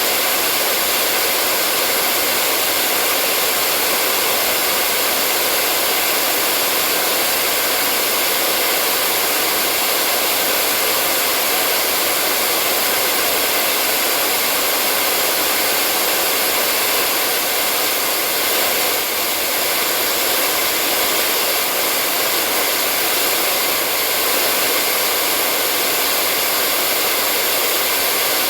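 Hair dryer running steadily: a continuous airy rush with a faint hum of its fan motor, unchanging throughout.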